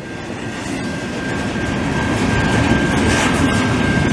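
Canadian Pacific double-stack intermodal train rolling past at speed: a dense rush of steel wheels on rail that grows steadily louder, with a thin steady high whine held above it.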